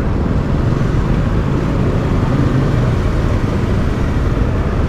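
Steady low rumble of wind on the microphone of a moving motorcycle, with the motorcycle's running under it.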